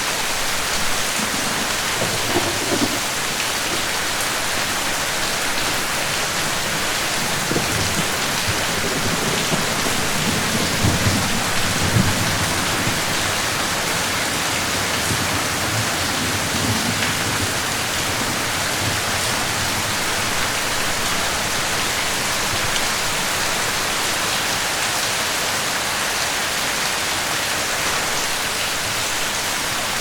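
Steady rain falling, an even hiss, with low rumbles of thunder coming and going, the strongest about eleven to twelve seconds in.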